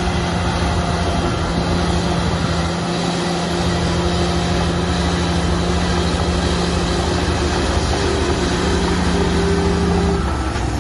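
Heavy earthmoving machinery's diesel engine running steadily under load, with a held engine note that breaks off briefly near the end.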